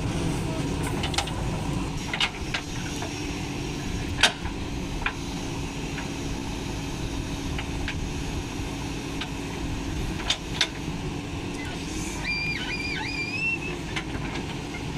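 JCB 3DX backhoe loader's diesel engine running steadily while digging and loading mud. Scattered sharp knocks and clanks sound over it, and a brief wavering whistle comes near the end.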